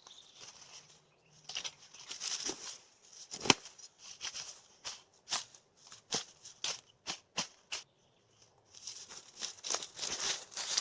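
Dry twigs and leaves rustling, with an irregular run of sharp snaps and clicks; the loudest snap comes about three and a half seconds in.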